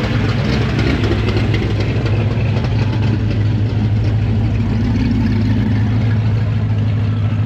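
A car engine idling steadily and loud, close by, with a strong low note that holds even throughout.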